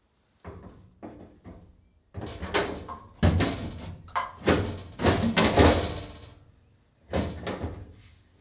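An irregular series of knocks and bangs. A few lighter ones come in the first two seconds, the loudest are packed together in the middle, and another short cluster comes near the end.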